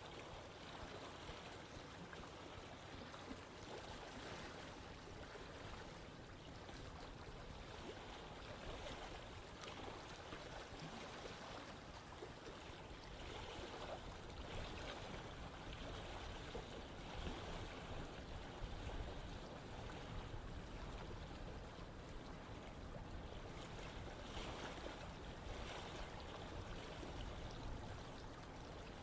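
Running water of a stream or river flowing steadily, an even rushing wash with small swells and gurgles.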